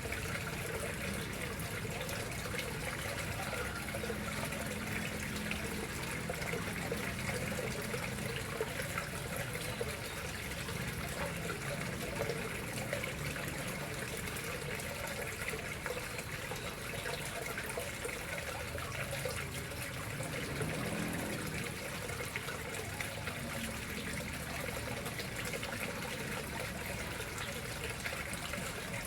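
Water flowing steadily into a koi fish pond, a continuous trickling and splashing.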